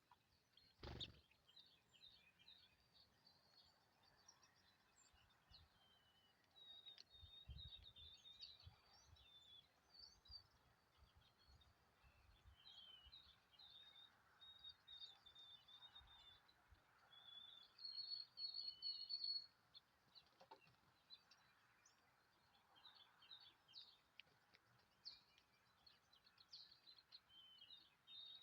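Small birds chirping and twittering, faint, with many short high notes overlapping. A single sharp knock about a second in, and a few soft low thuds around eight seconds.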